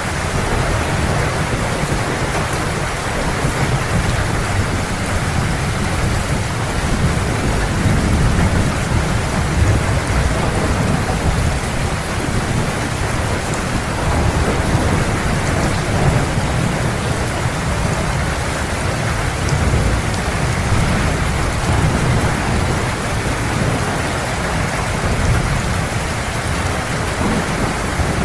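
Heavy, steady rain with a continuous low rumble of thunder that swells and eases slowly.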